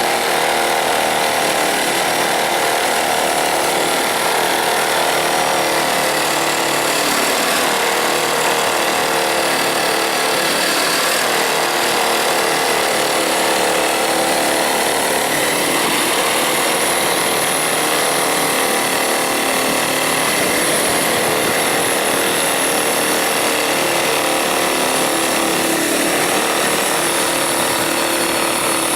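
Blizzard Ex1600win electric snowblower running steadily: a loud, even machine noise with several held whining tones over it.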